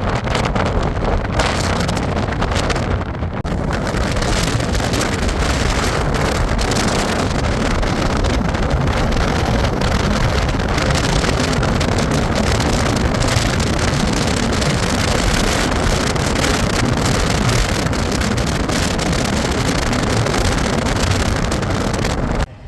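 Wind buffeting the microphone over a boat's steady motor noise. The sound cuts off suddenly near the end.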